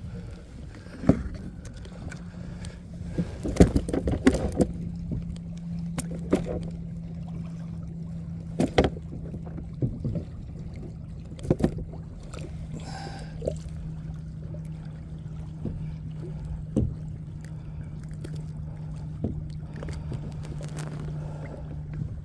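Scattered knocks and clunks against a plastic fishing kayak as a small bluefish is handled aboard, over a steady low hum.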